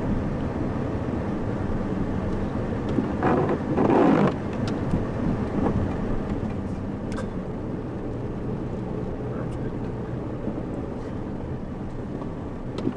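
Steady running noise of a car, engine and tyres on snow-covered roads, heard from inside the cabin. A brief voice-like sound breaks in about three to four seconds in.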